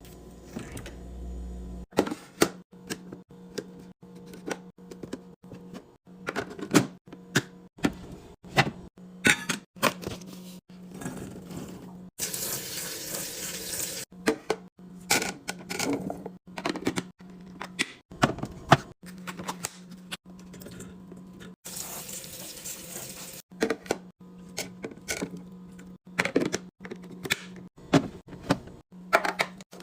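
Irregular clicks and knocks of containers and items being handled and set down while a fridge is cleaned and restocked, over a steady low hum. Two short stretches of hissing come about 12 seconds in and again about 22 seconds in.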